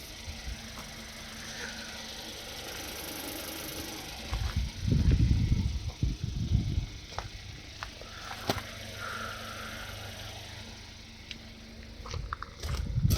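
A car engine idling as a steady low hum, with heavier low rumbling from about four and a half to seven seconds in and again near the end.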